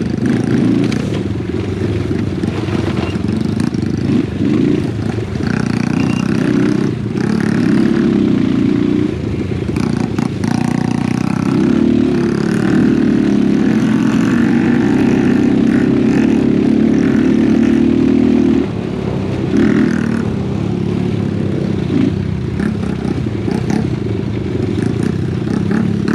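Small single-cylinder four-stroke engine of a Honda Wave 125 underbone motorcycle running under load as it is ridden along a rough dirt trail, its note rising and falling with the throttle and dropping briefly about two-thirds of the way through.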